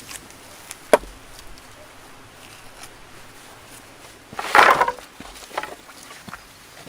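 Wood being chopped or broken by hand: a sharp knock about a second in, then a louder, longer crack of wood a little past the middle, and a smaller knock after it.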